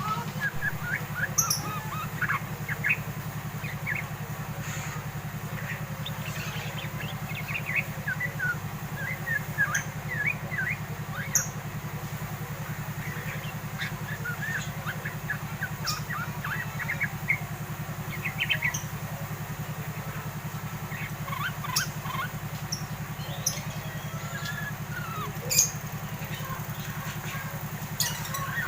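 A young yellow-vented bulbul chattering in quick, sharp chirps that come in clusters: the loud twitter of a bird coming into adulthood. A steady low hum runs underneath.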